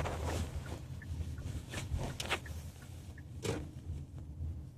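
Low steady rumble of a car heard from inside the cabin, with a few faint clicks and knocks.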